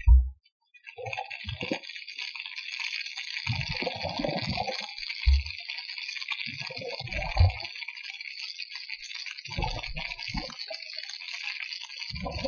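Water: a short low thump at the start, then a steady hissing crackle with a low surge of water every two to three seconds.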